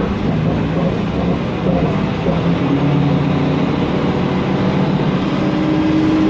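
Mercedes-Benz Conecto NGT city bus under way, heard on board: its CNG engine and Voith automatic gearbox give a steady drone with hum tones that slowly shift in pitch. A steadier higher tone comes in about five seconds in.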